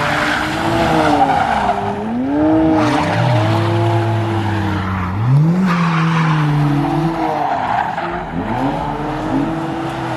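Car engine revving hard, its pitch rising and falling several times, while the tyres squeal in repeated spells as they spin on the pavement.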